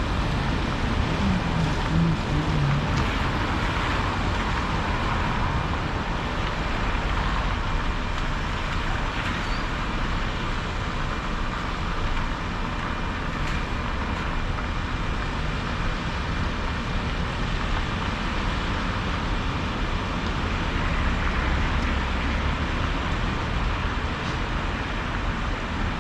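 Volvo 235EL excavator's diesel engine running steadily under work, an even, continuous machine drone.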